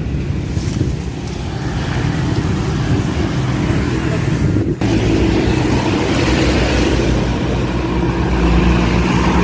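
Motor vehicle engine running steadily, a low hum with road noise, broken by a sudden brief dip about halfway through and growing heavier near the end.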